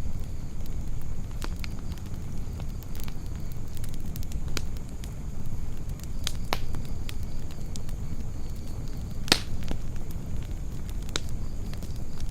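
Campfire crackling: burning wood pops in sharp, irregular snaps, the loudest about three-quarters of the way through, over a steady low rumble.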